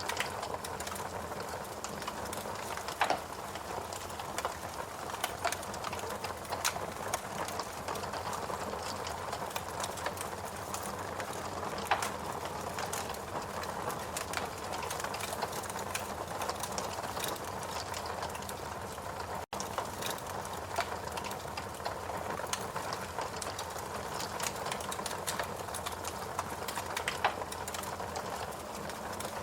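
Fireplace crackling: scattered sharp pops and snaps over a steady, dense crackling wash. The sound cuts out for an instant about two-thirds of the way through.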